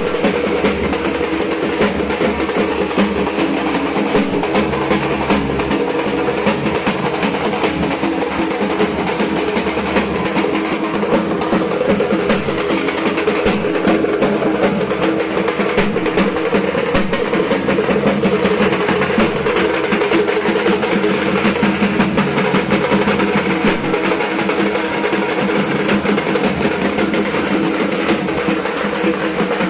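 Dhak, the big Bengali barrel drum, beaten with sticks in a fast, continuous rolling rhythm with a ringing drum tone beneath the strokes.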